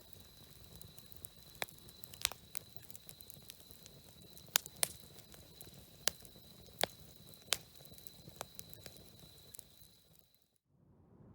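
Wood campfire crackling, with irregular sharp pops over a low hiss, fading out about ten seconds in.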